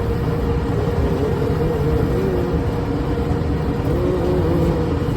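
Preet 987 combine harvester running steadily as it drives on the road, a dense low rumble with a steady whine over it.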